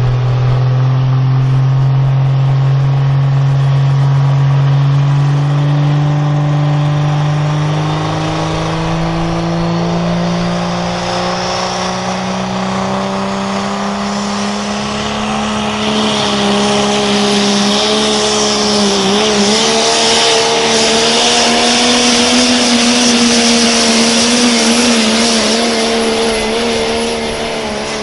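Engine of a pulling vehicle working under full load as it drags a weight sled down the track. Its pitch climbs slowly for about sixteen seconds, wavers briefly, then holds high while a loud hiss builds alongside it.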